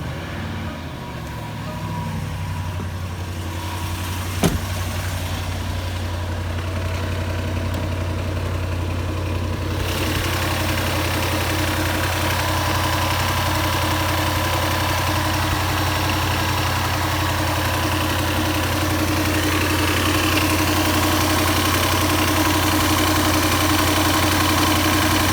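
Range Rover engine idling steadily just after starting, with a single sharp click about four seconds in. The owner hears a knock in it that he can't trace, seemingly from the right side of the engine.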